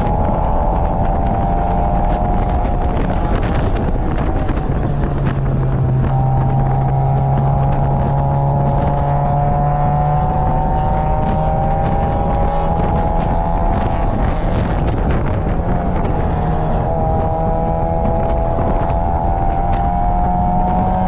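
Mazda Roadster's 1.8-litre four-cylinder engine heard from inside the open cockpit at race pace, its note climbing slowly under load and dipping twice, about four seconds in and about sixteen seconds in, over steady wind rush.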